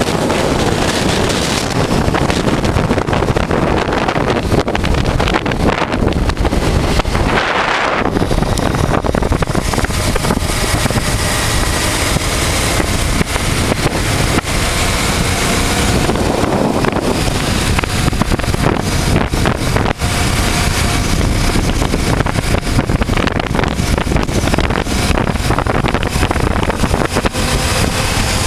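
A 1988 Honda Transalp's 600 cc V-twin engine running at road speed, buried under heavy wind noise on the microphone. The low rumble drops out briefly about seven and a half seconds in.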